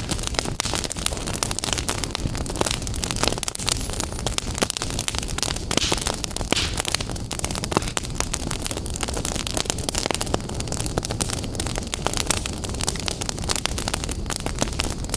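Fire crackling in a fireplace: a dense, steady stream of small pops and snaps over a low rushing hiss.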